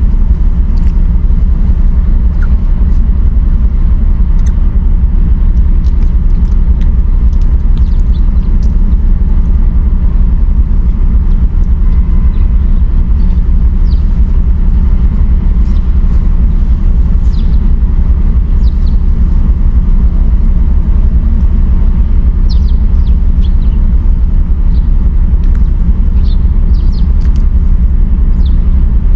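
Steady, loud low rumble throughout, with faint short high-pitched squeaks scattered through it, more of them in the second half.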